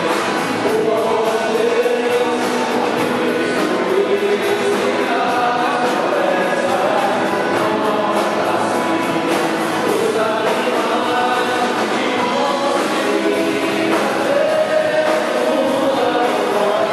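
Music: a choir singing a gospel-style song, with held sung notes.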